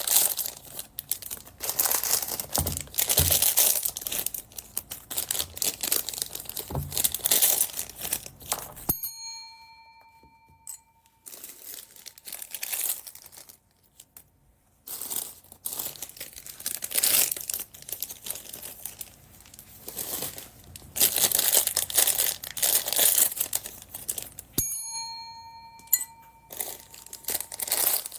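Plastic packing bags crinkling and rustling in irregular bursts as they are handled and opened. A brief ringing tone sounds twice, about 9 seconds in and again near the end, and there is a lull between about 10 and 15 seconds.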